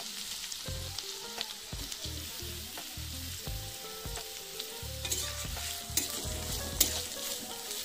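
Sliced onions and green chillies sizzling in hot oil in a kadhai. From about five seconds in, a spatula stirs them, scraping and clicking against the pan.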